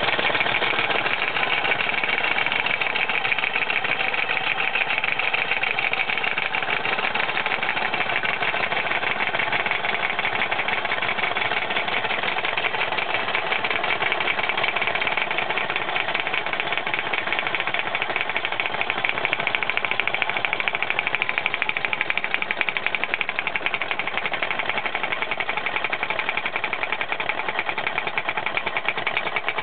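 Kit-built model steam engine running and driving a small hammer stamper, whose hammer strikes in a rapid, continuous clatter.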